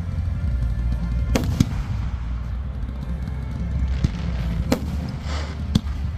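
Fireworks bursting overhead: about five sharp bangs, two close together a little over a second in and the rest spread over the last two seconds, with a short crackle near the end. Music with a heavy bass plays underneath.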